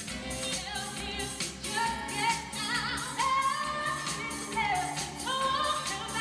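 Choir singing a 1970s pop song, with accompaniment and a steady beat.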